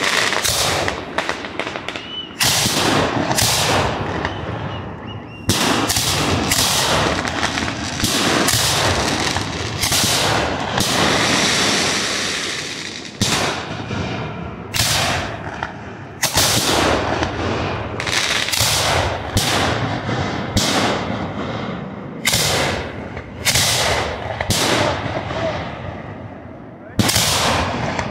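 Professional aerial fireworks fired from racks of mortar tubes: a rapid, irregular string of sharp booms as shells launch and burst. Around the middle there is a dense hissing, crackling stretch between the booms.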